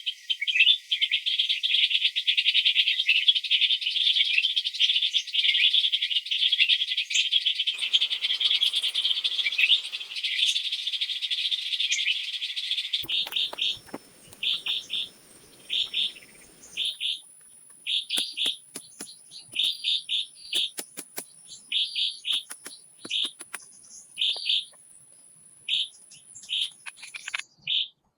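Birds chirping in the forest: a dense, continuous chorus of chirps for about the first half, then short single chirps repeated roughly once a second, with a thin high steady tone running under them.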